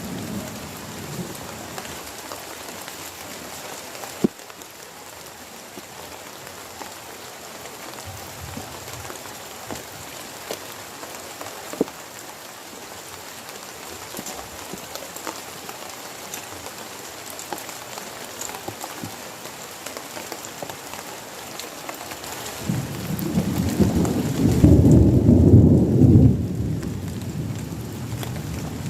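Heavy rain falling steadily, with scattered sharp drop taps. About three-quarters of the way in, a roll of thunder rumbles up, peaks and fades over about four seconds.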